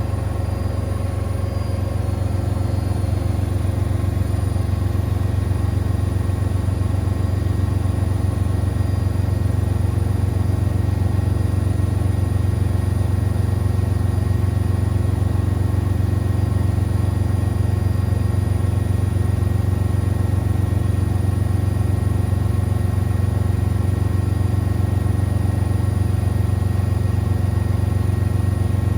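Siemens Extraklasse XLS 140 A washing machine spinning at high speed, a steady low drone with a constant hum that settles at full speed in the first few seconds.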